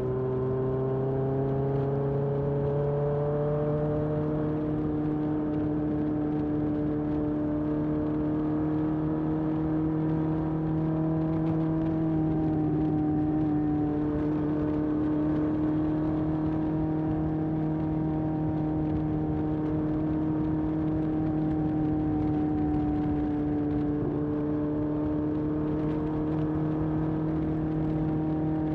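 Honda CB750F's air-cooled inline-four exhaust through a period Yoshimura muffler, riding: the engine note climbs over the first few seconds as the bike accelerates, then holds steady at a cruising engine speed.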